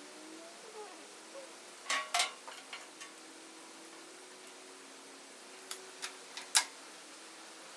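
Sharp clicks and light knocks from tools and parts being handled at a workbench: a few about two seconds in, and a few more, the last one the loudest, about six seconds in.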